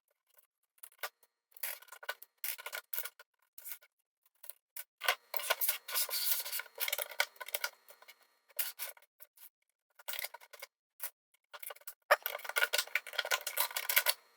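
LEGO plastic bricks and plates being pried apart by hand: irregular sharp clicks and scraping rubs of hard plastic on plastic, coming in busier spells about a third of the way in and again near the end.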